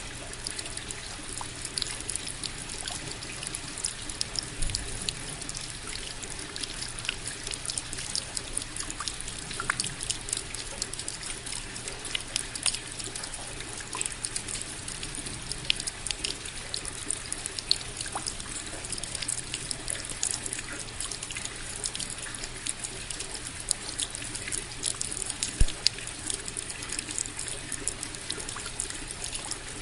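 Steady rain: an even hiss dotted with many sharp, irregular drop hits close by.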